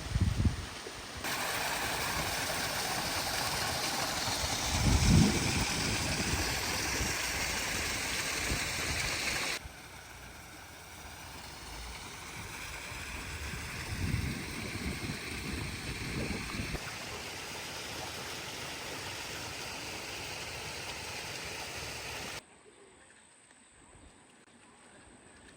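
Steady rushing of flowing water, heard in a few cut segments at different loudness, with a few low thumps about five seconds in and again around fourteen seconds.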